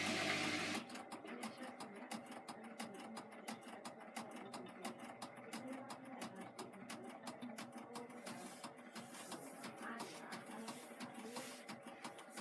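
Hotpoint HE8L493 washing machine mid-cycle: a rush of water through the machine cuts off sharply about a second in, then the machine keeps going with a quiet, rapid, uneven ticking and rattling.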